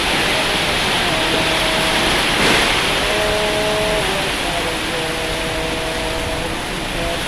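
Heavy storm rain pouring steadily, with a brief louder gust about two and a half seconds in. A few held tones, from a tune or a voice, sound over the rain.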